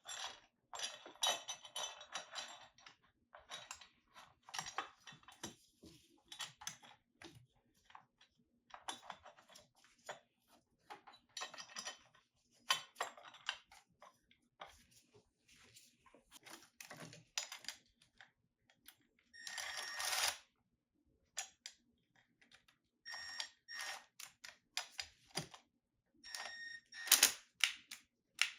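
Hand tools clicking and clinking in short irregular bursts, with a few brief ringing metallic notes: a socket ratchet and tools being worked on the engine.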